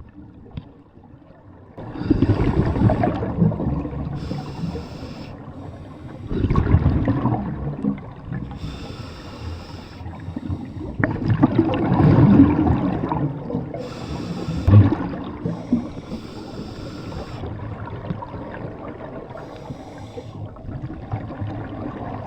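Scuba diver breathing underwater through a regulator: several breath cycles, each a short hiss on the inhale and a longer rumble of exhaled bubbles. It starts about two seconds in.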